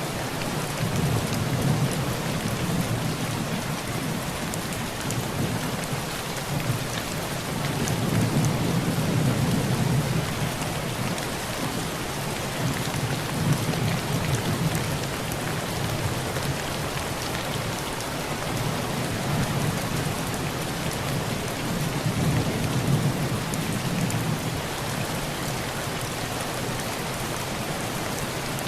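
Heavy rain falling steadily on a tin roof, with low rolling thunder that swells and fades several times.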